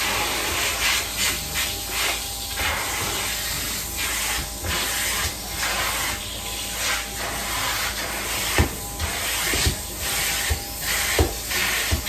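Hot-water extraction upholstery cleaning tool hissing as it sprays and sucks up water, in repeated strokes about once a second. A few low thumps come in the second half.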